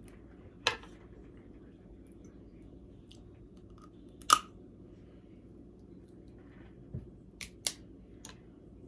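Blue crab shells being cracked and snapped apart: a handful of sharp cracks spread out, the loudest about four seconds in and three in quick succession near the end.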